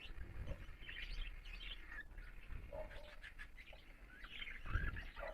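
Lovebirds chirping faintly in short, scattered high chirps.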